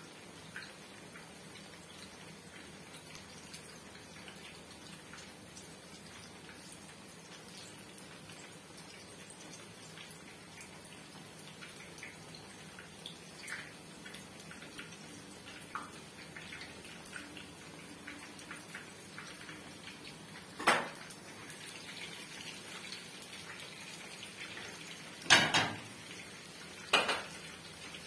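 Eggplant slices frying in shallow oil in a nonstick pan: a steady sizzle scattered with small pops and crackles. In the last third, kitchenware clatters sharply three times against the pan or stovetop.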